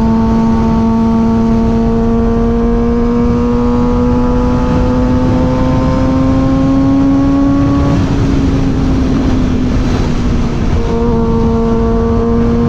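Suzuki GSX-R 600's inline-four engine running at steady road speed, its pitch climbing slowly for about eight seconds, then easing off and fading for a couple of seconds before the note comes back. Heavy wind rush on the microphone runs underneath.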